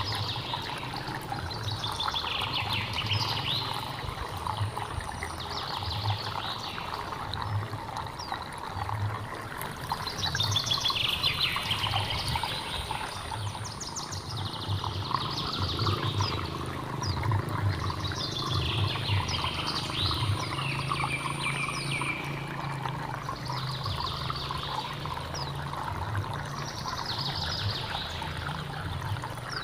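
A small hillside stream trickling and gurgling steadily, with a bird singing short, repeated high phrases every few seconds over it.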